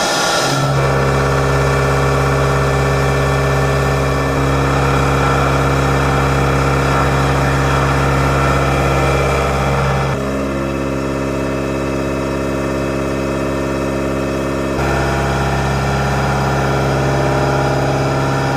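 A CNC vertical machining center running with a steady, loud hum made of several fixed tones, its pitch pattern shifting abruptly a few times.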